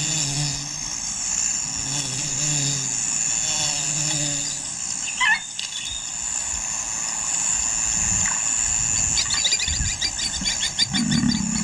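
Natural bush ambience: a steady high insect drone, a short bird call about five seconds in, and fast rhythmic insect chirping starting about nine seconds in.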